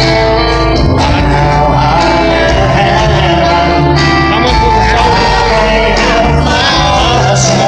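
Live country band playing a song at concert volume.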